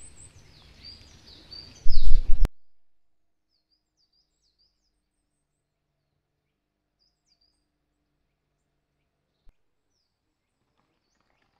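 A loud burst of rumbling, rustling noise that cuts off abruptly about two and a half seconds in. After it, small forest birds chirp faintly now and then, short sliding calls over near quiet.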